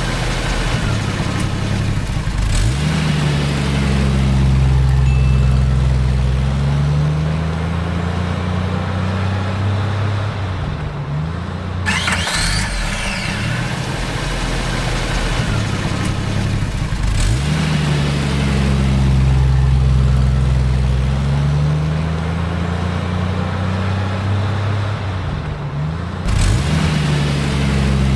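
An engine running steadily low and deep, revving up in a rising sweep every fourteen seconds or so in a repeating loop, with a sharp whoosh twice.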